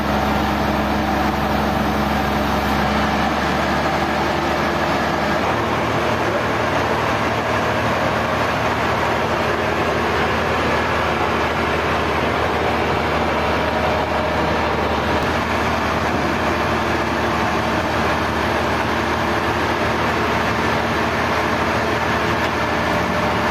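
Sawmill machinery running steadily with an engine hum, its low tone shifting about three seconds in and again a couple of seconds later.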